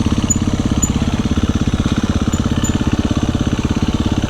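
Dirt bike engine running at low, steady revs, an even fast pulsing beat with no change in pitch.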